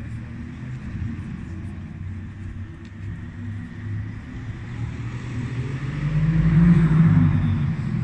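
Mercedes-AMG GT S twin-turbo V8 engine running at a distance with a steady low drone, growing louder over the last few seconds and loudest about seven seconds in.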